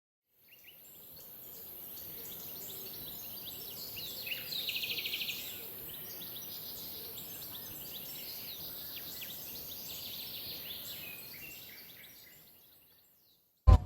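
Birds chirping and calling over a steady high hiss, fading in and out; a fast trill about four to five seconds in is the loudest part.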